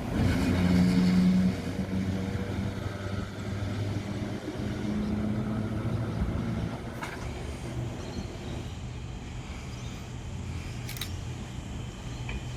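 Electric train running with a steady low hum, loudest for the first second or two and then gradually fading away.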